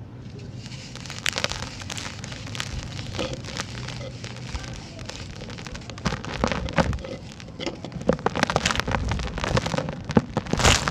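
Dry sand-cement chunks crumbling, a dense run of crackles and pattering falling grit that grows busier about halfway through, with a loud crunch near the end.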